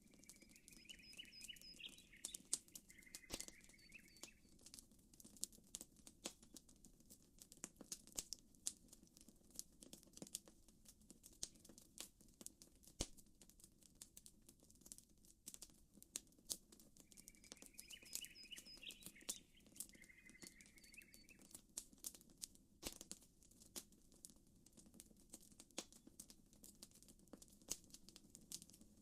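Campfire crackling with frequent sharp pops over a low, steady wash of gently lapping water. A bird sings a short chirping phrase twice, near the start and again a little past halfway.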